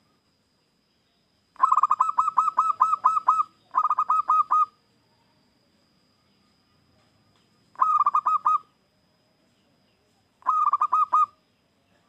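Zebra dove (perkutut, local strain) cooing in four bouts of fast, evenly repeated notes, the first one the longest, a few seconds apart.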